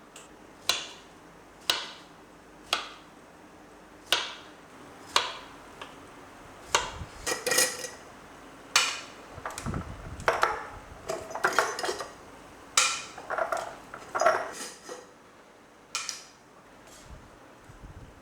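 Kitchen utensils and dishes clinking: sharp single taps about once a second, then a busier run of clattering and rattling, then a few last taps.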